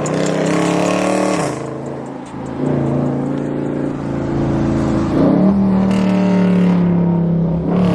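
Car engine revving hard and held at high revs, with the note dropping briefly about a second and a half in and then climbing again twice, as a car slides at a street takeover.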